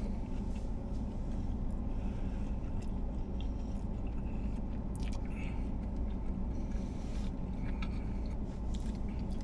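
A person chewing and biting into a steak-and-bacon sub sandwich, with small irregular mouth clicks and crackles over a steady low hum.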